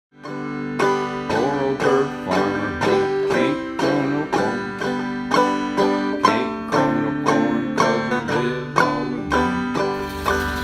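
Banjo playing an old-time tune, a brisk, steady run of plucked notes. A low rumble comes in under it near the end.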